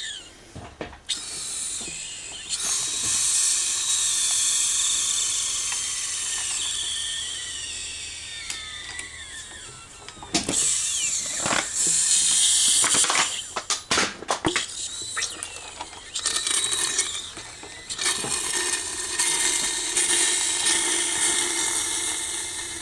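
Power tool whirring in long runs, its pitch sliding slowly downward, with a few sharp metal clicks and knocks around the middle.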